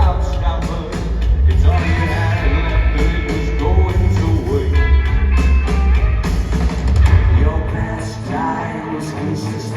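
Rock band playing live: electric guitar, bass and drums, with a deep bass line that drops out about eight seconds in.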